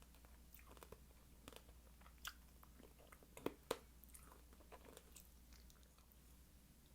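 Close-miked chewing and biting of fruit: faint, scattered sharp mouth clicks at irregular intervals.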